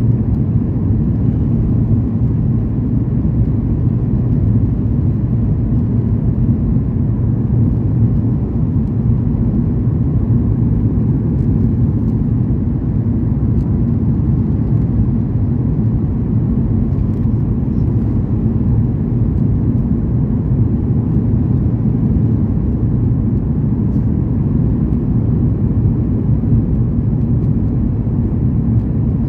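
Airliner cabin noise: a steady low rumble of engines and airflow, heard from inside the cabin.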